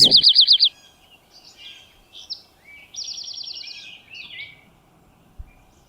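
Songbirds singing: a loud, fast trill of repeated high notes at the start, scattered chirps, and a second rapid trill about three seconds in.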